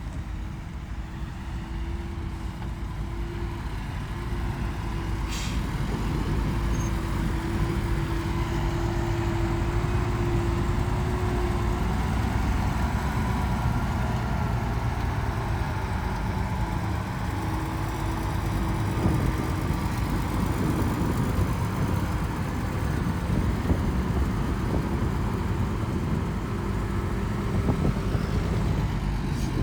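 Diesel engine of heavy earthmoving machinery running under load, with a steady whine that comes and goes. The machine gets louder about seven seconds in, and there is a single knock about five seconds in.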